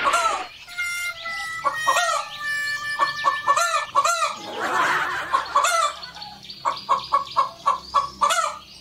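Chicken clucking: a series of short, arched calls, then a quick run of clucks near the end.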